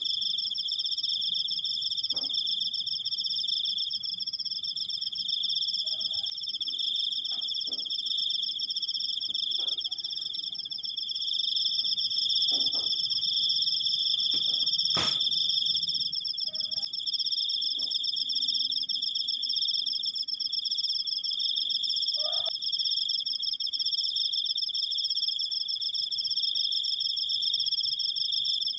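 Cricket (jangkrik) singing a long unbroken high-pitched trill made of very fast pulses, heard at two steady pitches. Faint short calls from other animals sound now and then, and a single sharp click comes about halfway through.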